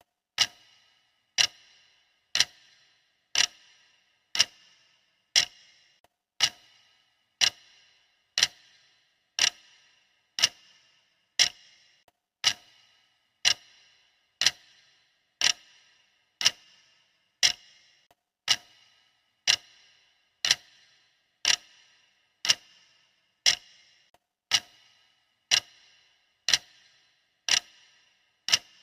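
Clock ticking steadily, one sharp tick each second, each tick with a brief bright ring.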